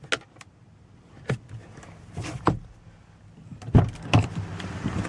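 Clicks and knocks of a car's interior fittings being handled, with two heavier thumps about four seconds in, followed by a steady rush of wind noise.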